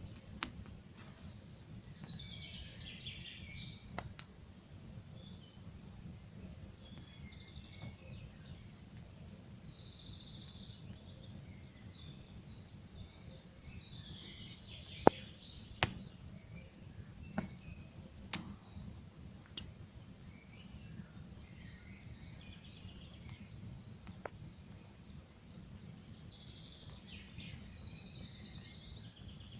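Campfire crackling with a steady low rustle and a few sharp pops, the loudest about halfway through, while songbirds sing repeated high trills in short bursts.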